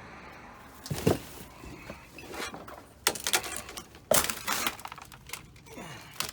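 Broken glass and debris crunching and clinking underfoot, with several sharp knocks.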